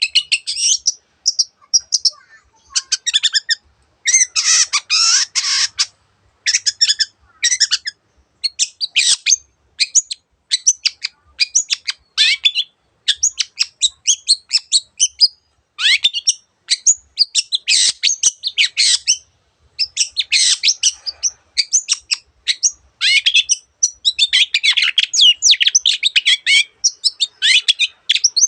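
Long-tailed shrike singing a fast, chattering song of high, twittering notes in bursts of a second or two with short pauses between them, a song that weaves in the calls of other birds.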